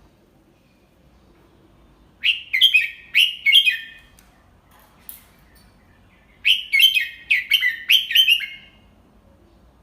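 Red-whiskered bulbul singing two short phrases of quick warbled notes, one starting about two seconds in and the other about six and a half seconds in, each about two seconds long. A faint click falls between them.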